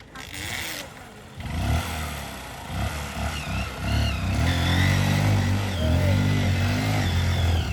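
A motor vehicle engine running close by. It comes in sharply about a second and a half in, rises and falls in pitch briefly, then holds a steady running note.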